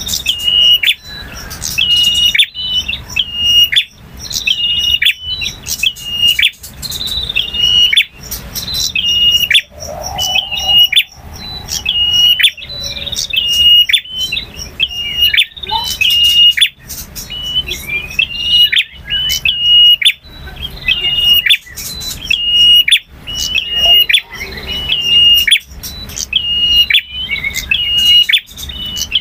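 Male prinia (prenjak) singing loudly: a continuous run of short, sharp, high chirping notes repeated several times a second in quick phrases.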